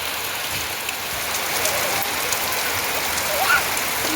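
Steady monsoon rain falling on surfaces: an even hiss with scattered small drip ticks.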